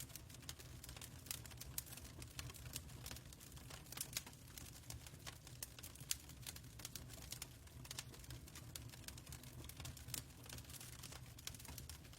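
Fireplace crackling: irregular sharp pops and crackles of uneven strength over a steady low rumble.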